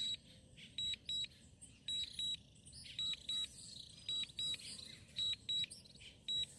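DJI drone remote controller warning beeps: high double beeps, one pair about every second, repeating steadily while the Mini 3 Pro is on return-to-home with its battery running down.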